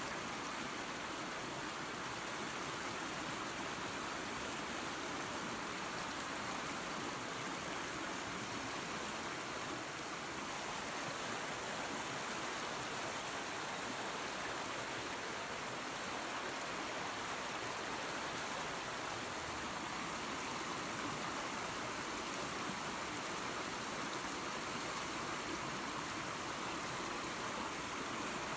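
Small waterfall and creek running water, a steady rushing splash.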